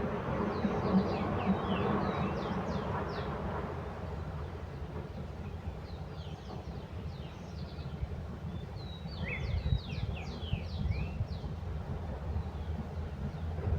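Small birds chirping in quick runs of short, high notes, in three bursts, over a steady low rumble.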